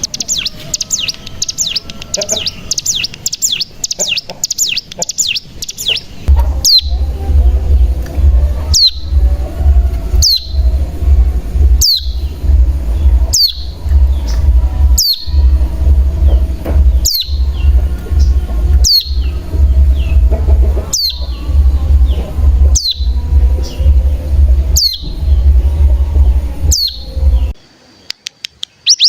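Ciblek gunung (mountain prinia) song used as a lure. It opens with a fast, high trill (the 'bren'), then a sharp, high down-slurred note repeats every one and a half to two seconds over a loud low hum. The trill starts again right at the end.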